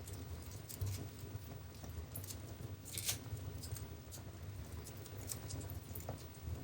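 Wood fire burning in a fireplace: a steady low rumble of flames with irregular crackles and pops, the sharpest snap about three seconds in.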